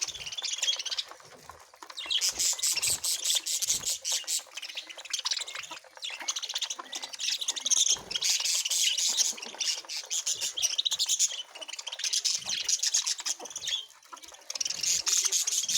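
Many birds chirping noisily together while feeding, a dense high-pitched chatter with brief lulls about a second and a half in and again near the end.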